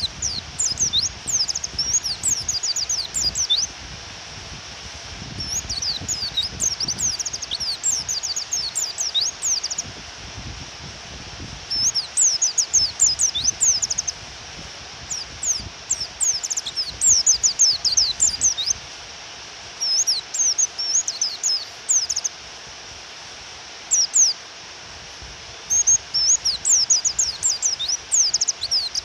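White-eye (pleci) calling in quick runs of high, rapid chirps, phrases of two to three seconds with short pauses between, which the uploader presents as a female's call meant to provoke a male into singing. Under it runs a steady rain hiss.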